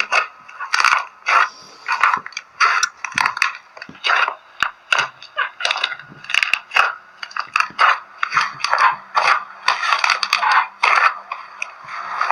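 Slime being squeezed and poked by hand, giving an irregular run of short crackling pops and squelches, two or three a second.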